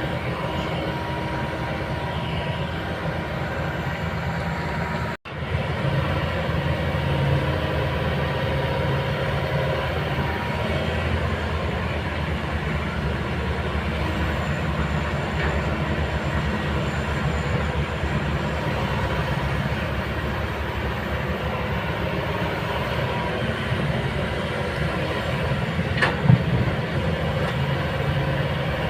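Kobelco hydraulic excavator's diesel engine running steadily as the machine works. The sound breaks off briefly about five seconds in, and there is a single sharp knock near the end.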